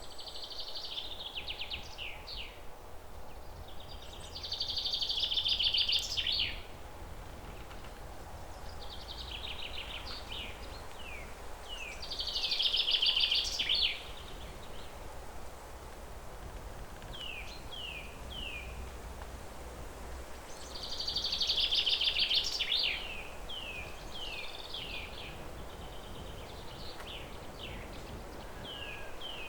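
A small songbird singing, repeating a short song phrase every few seconds: a fast trill followed by a few quick falling notes. Beneath it runs a steady low outdoor rumble.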